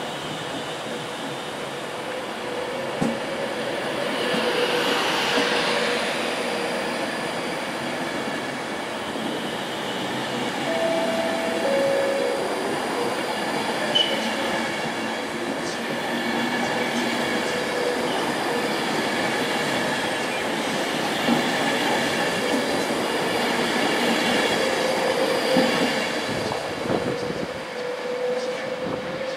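Virgin Trains Class 390 Pendolino electric train running along the platform: a continuous rumble of wheels on rail with steady whining tones, growing a little fainter near the end as its last coach draws away.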